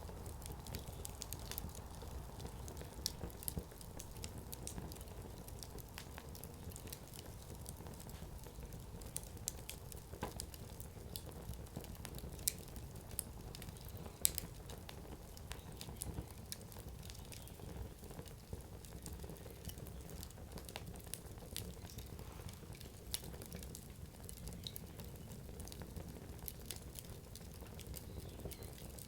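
Firewood burning in an open campfire: a low steady rush of flame with scattered sharp crackles and pops from the burning logs, a handful of them louder than the rest.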